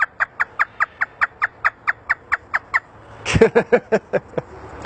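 African grey parrot imitating a hysterical laugh: a fast run of short, high "ha" notes, about six a second, then a louder, deeper burst of laughter about three seconds in.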